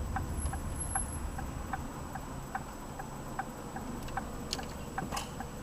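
Turn-signal clicking inside a car's cabin, even ticks about two or three a second, over a low engine and road rumble.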